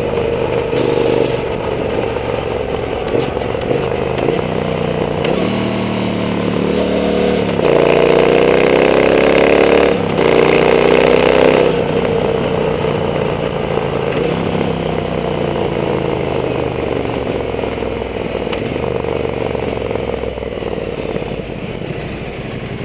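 Triumph Bonneville T120's 1200 cc parallel-twin engine through an aftermarket Zard exhaust, accelerating hard. Its pitch climbs, dips briefly at a gear change about ten seconds in, and climbs again. It then drops off as the throttle closes and fades to a lower, steadier run near the end.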